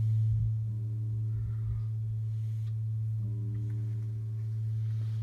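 Steady low electrical hum with fainter overtones that swell and fade, heard while a GE 12-inch table fan, just switched off, coasts through its spin-down.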